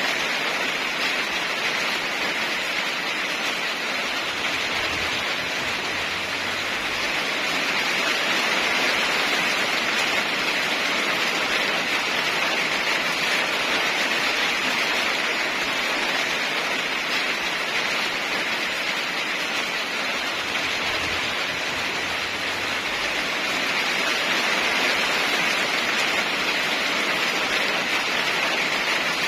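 Steady rain falling as an even hiss that swells and eases gently over several seconds.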